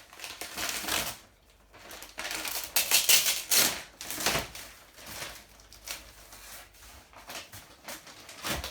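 Plastic packaging wrap being cut with a knife and pulled off the top of a new washing machine, crinkling and scraping in irregular bursts, loudest about three seconds in.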